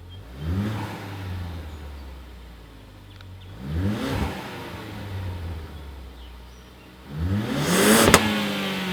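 Ford Focus ST's 2.0-litre turbocharged four-cylinder on its stock exhaust, revved three times from idle, each rev rising and falling back. The third rev is the highest and loudest and ends in a sharp pop on lift-off.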